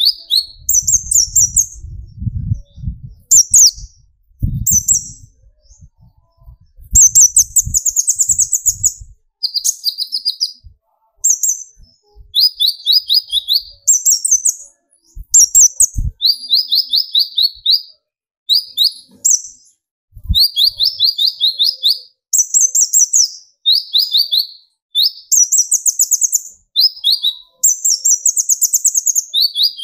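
Kolibri ninja (konin) sunbird singing: a long run of short, fast, high trilled phrases, each about half a second, following one another with brief gaps and switching between a lower and a higher pitch. Soft low knocks patter under the song for the first several seconds, with single thumps near the middle.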